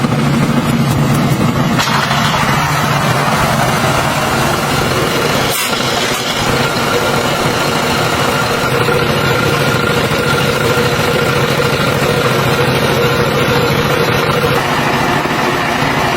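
Tractor engine running steadily; its note shifts about two seconds in and again near the end, with a brief dip just before six seconds.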